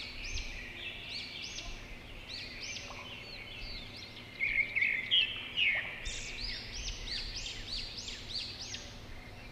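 Small songbirds chirping in a quick run of short, high, arching notes, loudest about halfway through.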